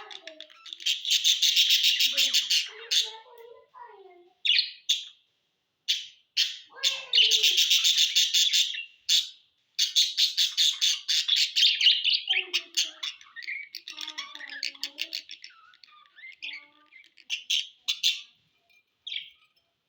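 Budgerigars chattering: bursts of rapid, high warbling chirps lasting a second or two, several times over, with short pauses and scattered single calls between.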